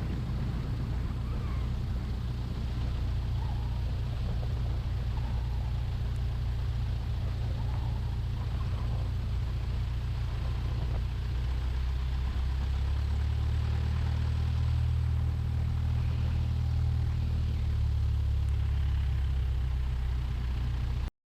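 1969 Cessna 172's four-cylinder Lycoming engine running steadily at low taxi power, its propeller drone shifting slightly in pitch about halfway through. The sound cuts off abruptly near the end.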